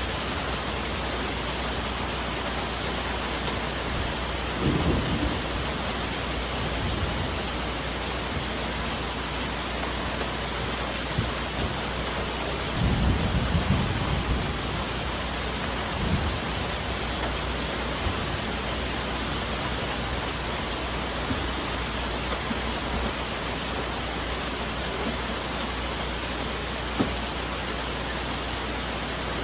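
Steady rain falling on forest foliage, with low rumbles of thunder twice, about five seconds in and again about thirteen seconds in, and a few single louder drops.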